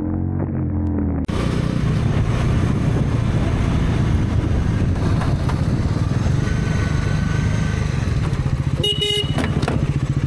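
Motorcycle engine running steadily, heard through a rider's camera with road noise, after an abrupt cut about a second in from another vehicle's engine. A short car horn honk sounds near the end.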